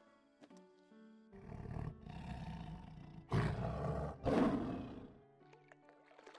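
A large animal's deep, rough calls, starting about a second in and ending with two louder calls near the end, over light background music.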